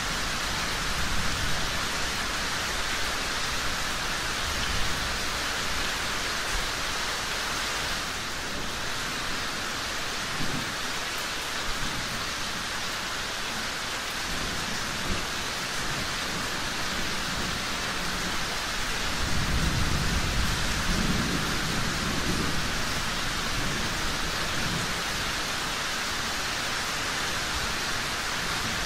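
Steady heavy rain with low rolling rumbles of thunder. The longest and loudest rumble comes about two-thirds of the way through.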